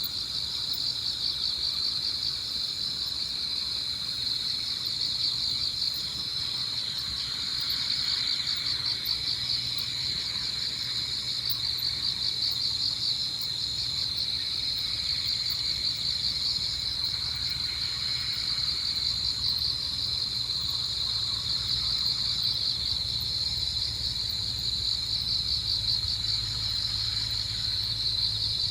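A chorus of autumn insects trilling steadily, with a fainter on-off higher trill above it and a low steady rumble underneath.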